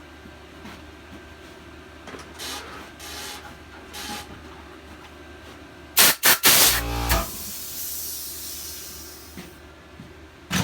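Light rubbing and handling noises on engine parts, then a quick cluster of loud knocks about six seconds in, followed by a hiss that fades away over a couple of seconds.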